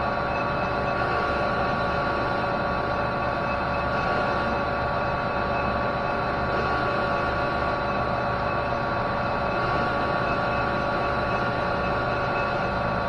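Metal lathe running steadily during a cut, giving a constant hum with several steady whining tones from its drive.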